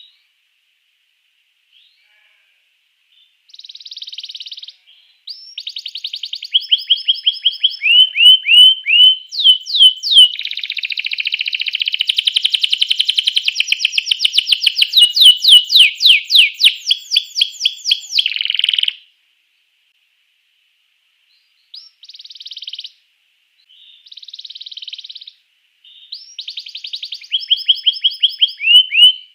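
Domestic canary singing in phrases of fast trills and rapidly repeated gliding notes. It falls silent for a couple of seconds between phrases.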